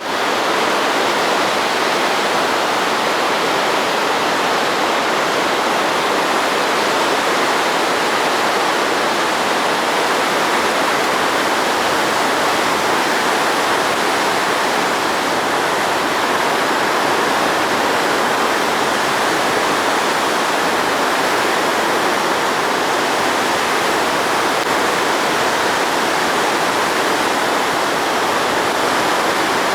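Steady loud rush of the Shinano River's water pouring through and below the Miyanaka intake dam, still running high the day after a typhoon.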